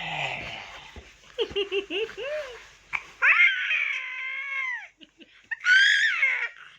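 Baby vocalizing: a run of short giggling coos, then two long, high-pitched squeals that bend in pitch.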